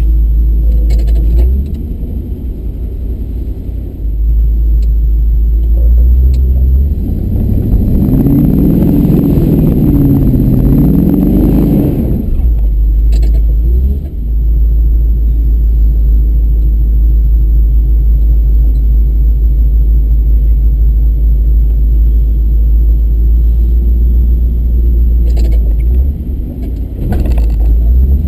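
Truck engine running with a heavy, steady low rumble. About seven seconds in it revs up and down for several seconds, then settles back.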